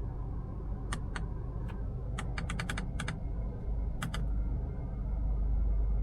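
Sharp clicks from the Mazda CX-5's interior controls being operated: single and paired clicks, and a quick run of about six a little after two seconds in. Under them runs a steady low cabin rumble.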